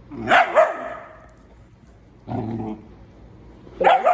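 A dog barking in short bursts: two loud barks about half a second in, a lower bark a little after two seconds, and another loud bark near the end.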